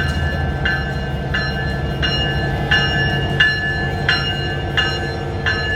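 Diesel locomotive bell ringing steadily, about three strokes every two seconds, over the low rumble of a train pulling in.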